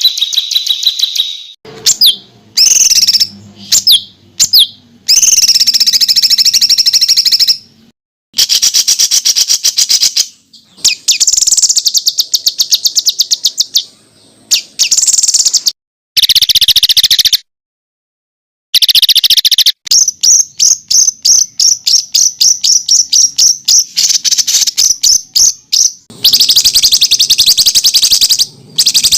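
Loud, close songbird song in rapid-fire trains of sharp repeated notes and trills: dense 'tembakan' phrases of the kind used as master song for competition birds. The song starts and stops abruptly, with several short silent gaps between phrases.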